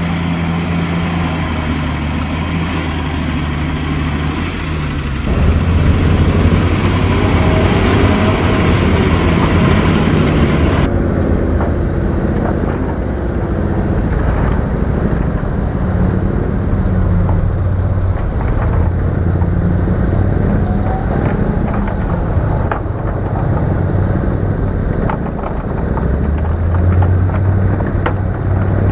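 Heavy diesel engine of earthmoving machinery running under load, growing louder about five seconds in, with a few short knocks in the second half.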